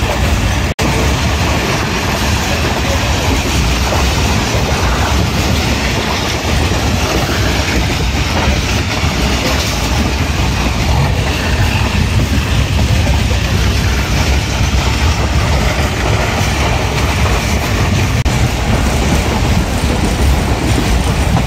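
Passenger train running along the track, heard from on board: a steady noise of wheels on rails with a rattle of the carriage. The sound cuts out for a moment about a second in.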